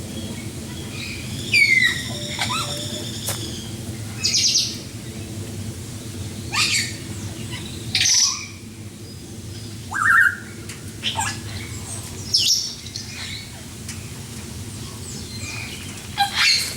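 Birds calling: short, loud calls and squawks every second or two, about seven in all, over a steady low background hum.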